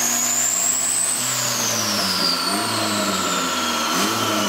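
Turbocharged Honda Integra engine running on a chassis dyno, with a high whine that rises for about a second and then slowly falls away.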